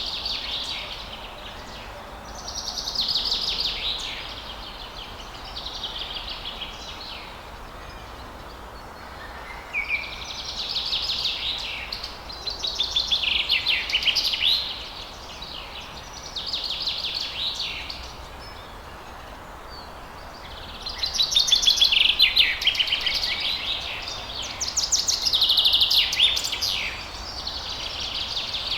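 Birdsong: phrases of rapid high notes, each a second or two long, repeated every few seconds over a steady background hiss.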